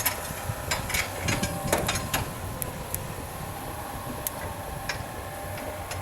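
Scale model steam traction engine running: irregular clicks and knocks over a steady low rumble, most of the clicks in the first two seconds.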